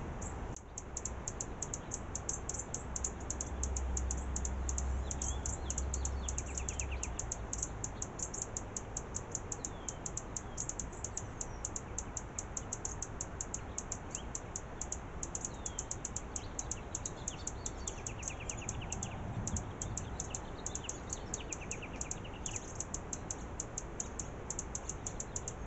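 Small birds chirping and giving short trills at intervals, over a fast, even high ticking and a steady hiss. A low rumble runs from about three to seven seconds in.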